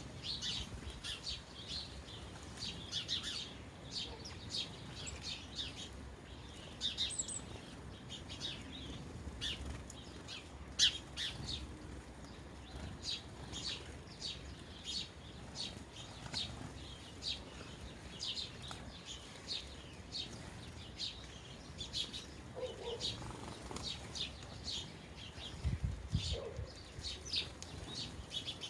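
A flock of sparrows chirping, a busy run of short, high chirps with many birds calling over one another.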